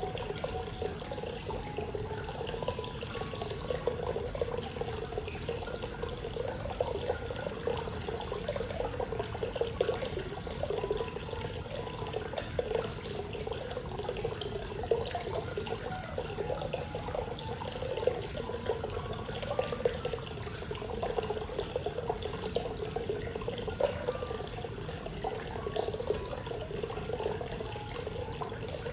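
Natural hot spring water pouring steadily into a bath, a continuous splashing flow.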